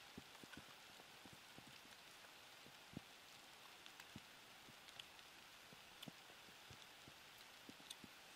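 Very faint chewing of roasted larvae: soft, irregular crunches and mouth clicks over a quiet hiss.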